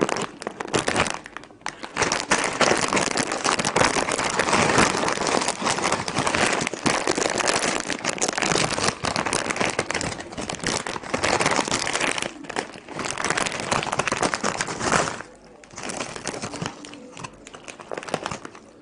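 Plastic potato-chip bag being crinkled and handled: a dense, continuous crackling that thins to sparser crinkles after about fifteen seconds.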